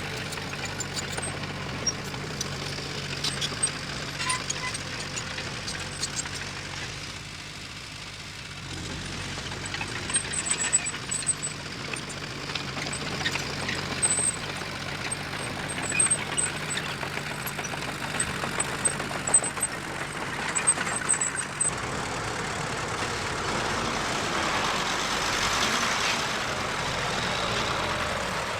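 Diesel engine of heavy earth-moving machinery running, with scattered metallic knocks and brief high squeaks through the middle. The engine grows louder for a few seconds near the end.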